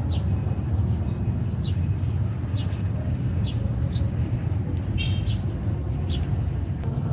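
Small birds chirping: short, high chirps that slide downward, repeated irregularly, over a steady low rumble.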